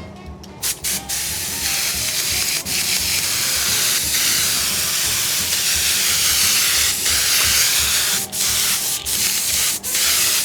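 Adhesive being sprayed onto seat foam: a long, loud hiss, broken by a few brief stops.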